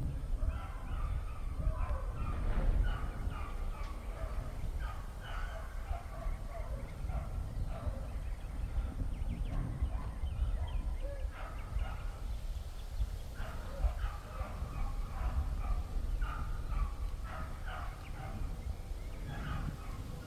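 Birds calling over and over in many short chirps and calls, over a constant low rumble.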